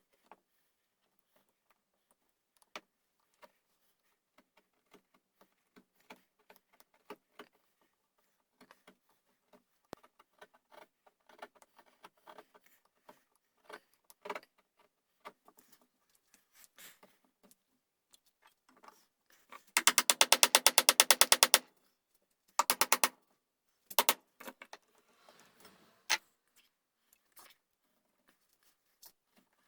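Hand tools working on a wooden gunstock while the buttplate is inlet: scattered light taps and scrapes, then a fast, even run of strokes lasting about two seconds, followed by a few short bursts.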